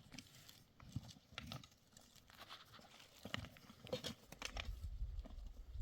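Horse hooves clopping irregularly on the ground, as scattered short knocks. A low rumble joins about four seconds in.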